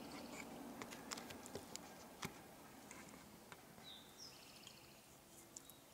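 A small bird singing faintly in the distance: a short phrase of one falling note and a quick run of higher notes, heard twice, with scattered faint clicks close by.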